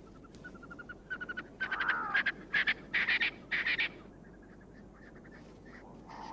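A francolin calling: a run of quick, rapid-fire notes that builds to four loud, harsh calls about two to four seconds in, then falls back to faint notes. This is the bird's dawn call, heard long before first light.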